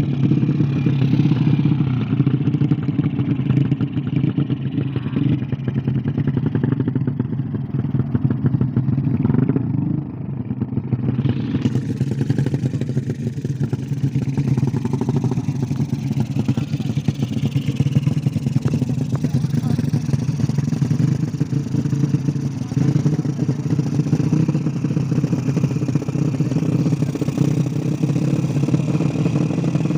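Small-displacement engine running steadily with a rapid, even firing pulse, dipping briefly about ten seconds in before settling back to the same pace.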